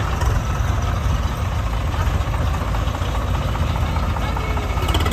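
Heavy diesel machinery engine running steadily, its sound sitting mostly low.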